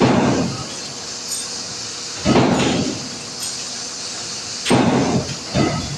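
Heavy metal clanks during the dismantling of a large industrial press: four sudden blows, each ringing briefly and dying away, over a steady background noise.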